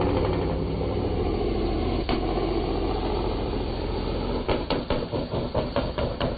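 Vehicle engine running steadily. From about four and a half seconds in it turns into a pulsing rhythm of about five beats a second.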